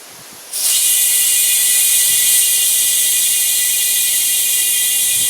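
Compressed air hissing loudly and steadily into a lawn tractor tire through its valve stem with the Schrader core removed, as the owner tries to seat the tire bead. It starts suddenly about half a second in.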